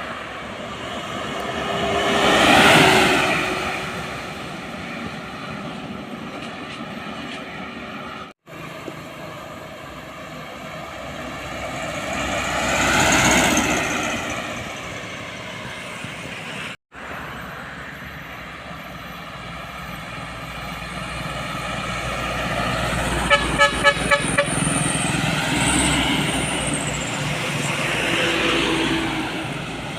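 Heavy trucks driving past one after another, engine and tyre noise swelling and fading with each pass, the engine note dropping in pitch as each goes by. Just past the middle comes a quick run of about six short horn toots.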